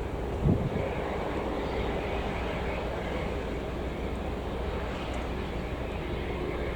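Boeing 747-428's four General Electric CF6-80C2 turbofans running steadily, a even rumble and hiss with a faint whine. A gust of wind hits the microphone about half a second in.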